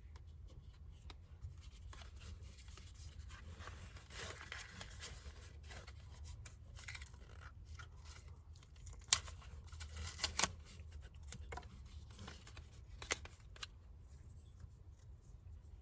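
Phone-mount packaging and plastic parts being handled and opened: soft rustling and small clicks, with a few sharper clicks about nine, ten and thirteen seconds in, over a low steady hum.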